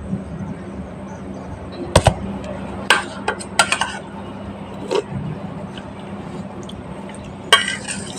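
Scattered sharp clinks and knocks, about five in all at irregular intervals, over a steady low hum.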